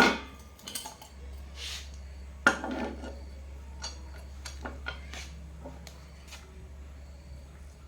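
Metal tools and pump parts being handled on a work surface: a sharp clank at the start and another about two and a half seconds in, each with a short ring, then lighter scattered clicks and taps.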